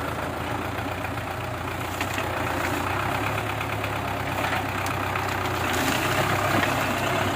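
Belarus 510 tractor's diesel engine running steadily, a little louder in the second half.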